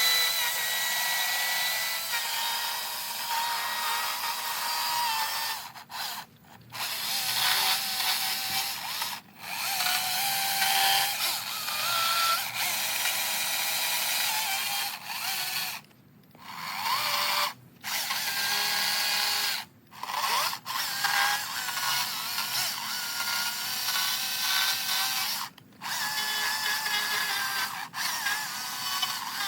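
Stihl battery chainsaw with a quarter-pitch chain cutting eastern red cedar: its electric motor whines in a series of runs, the pitch shifting as it bogs under load, with about eight short stops between cuts.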